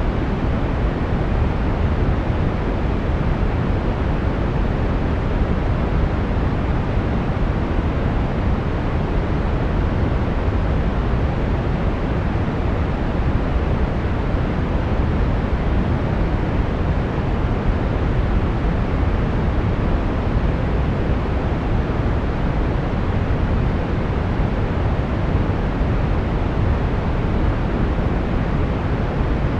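Steady brown noise: an even, deep rushing hiss, strongest in the bass and falling away toward the treble, with no change in level.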